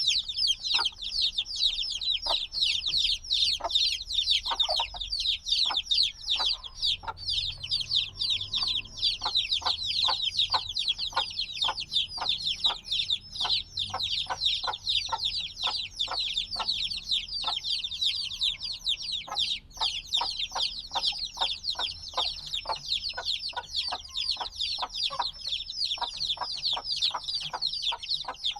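Many newly hatched chicks peeping loudly and without pause, a dense overlapping stream of short, high, downward-sliding chirps.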